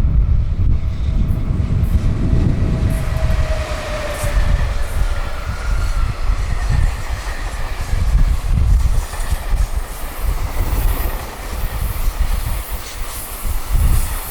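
Container freight train hauled by a JR Freight EF210 electric locomotive passing at high speed, with rumble and wheel clatter on the rails. A faint whine drops slightly in pitch over the first few seconds.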